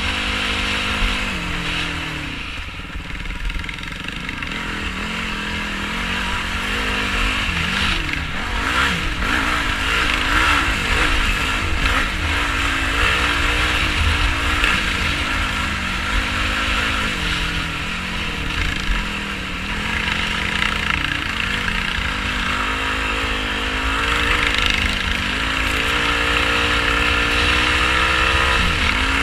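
Quad bike engine, a single-cylinder four-stroke Yamaha YFZ450R, revving up and down while riding off-road, its pitch climbing steadily near the end. A constant low rumble runs underneath.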